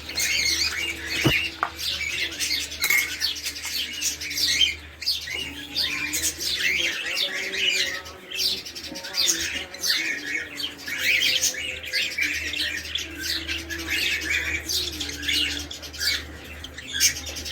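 A group of caged pet birds chirping and squawking continuously, many overlapping short calls, over a low steady hum.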